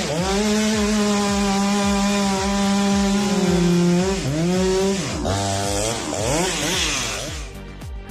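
Chainsaw engine running at high revs while cutting wood, its pitch sagging briefly a few times as it loads in the cut. It turns rougher and more uneven in the last few seconds and dies away just before the end.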